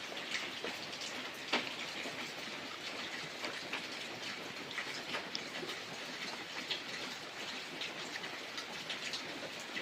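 Steady rain: an even hiss with many individual drops ticking sharply on a surface, one louder drop hit about a second and a half in.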